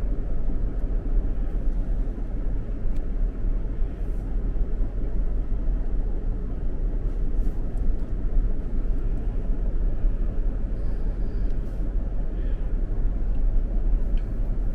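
Steady low rumble of a vehicle's engine and tyres, heard from inside the cabin while driving.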